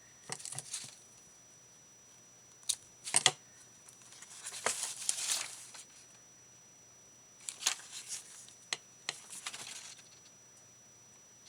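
Paper and journal pieces being handled: scattered sharp clicks and snips, the loudest a quick pair about three seconds in, and a longer rustle of paper in the middle.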